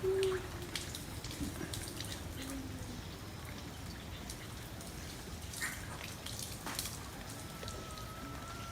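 Spotted dove giving short low coos, the loudest right at the start and a softer one about two and a half seconds in, among scattered light clicks and ticks.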